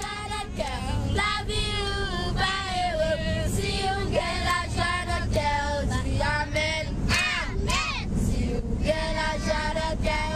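A group of children singing together in high voices, over a steady low background noise.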